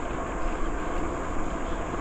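Steady rushing noise of a bicycle ride: wind on the microphone and tyres rolling along the trail.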